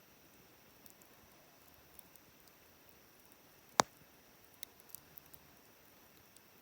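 Wood campfire crackling faintly, with one sharp, loud pop just past the middle and a few smaller pops about a second after it.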